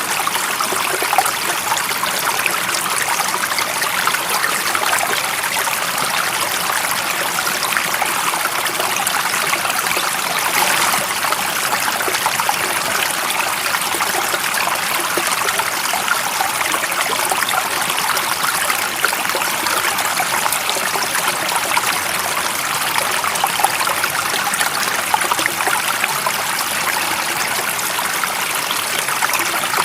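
Stream water flowing and trickling steadily, an even rushing hiss with no breaks.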